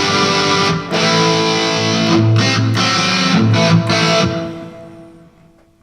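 Electric guitar played through the Danplifier "Uno", a 2-watt all-valve amp running on a single 6AF11 Compactron valve, pushed into overdrive. A few strummed chords with a short break about a second in, then the last chord rings out and fades over the final second and a half.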